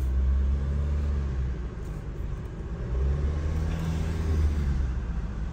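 GWM Cannon ute's turbo-diesel engine heard from inside the cabin, pulling away and accelerating, the revs rising again from about three seconds in. The throttle is being driven through a newly fitted throttle controller in sport mode, meant to cure diesel throttle lag.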